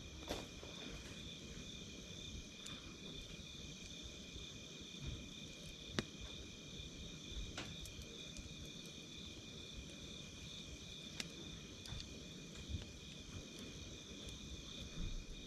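Night insects calling steadily in a chorus, one a fast pulsing trill and another a higher steady tone, with scattered sharp pops from a crackling wood campfire; the loudest pop comes about six seconds in.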